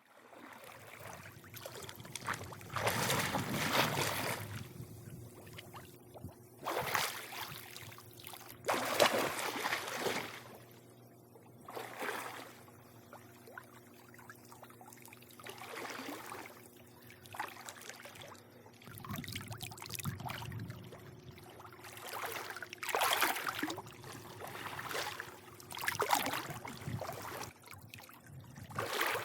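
Swimming-pool water lapping and sloshing in swells every few seconds, with a faint steady hum underneath.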